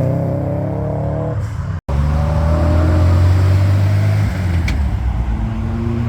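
Muscle car V8 engine running with its note easing back, then after an abrupt cut about two seconds in, a loud, deep, steady V8 idle rumble.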